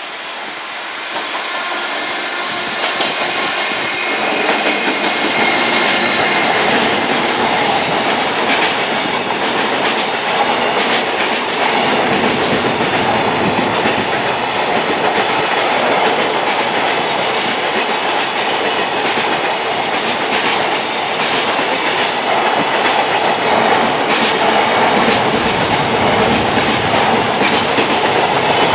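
Freight train passing at speed, growing louder over the first few seconds and then holding. The wagons' wheels clatter over the rail joints in a long run of clicks and knocks.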